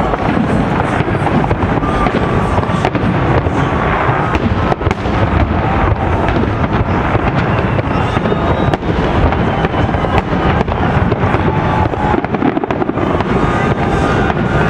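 Fireworks display: a dense, continuous barrage of aerial shell bursts, bangs and crackling, with no break.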